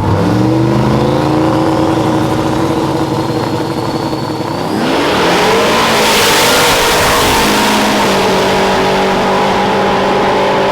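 High-powered boosted engines accelerating hard at full throttle in a roll race between a truck and a car. The engine pitch climbs, then holds, under a thin rising whine. About five seconds in, a louder rush of engine and wind noise takes over.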